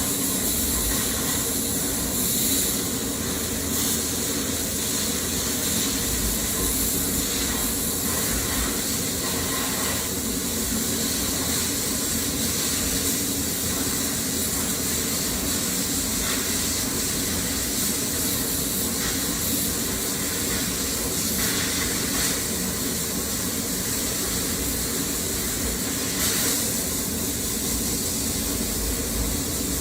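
FiberSabre CNC fiber laser cutting sheet metal: a steady hiss of assist gas over a low machine hum, with a few brief louder bursts as the cut goes on.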